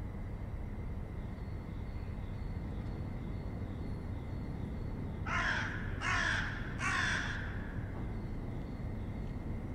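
A bird's harsh calls, three in a row about a second apart, over a steady low background rumble.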